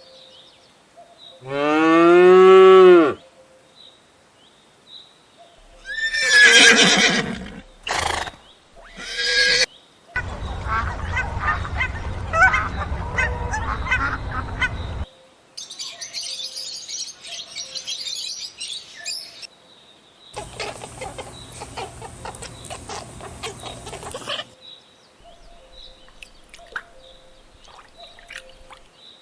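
A run of separate farm animal sounds cut one after another. The loudest is a drawn-out call near the start whose pitch rises and falls, followed by shorter calls and then stretches of steady noise.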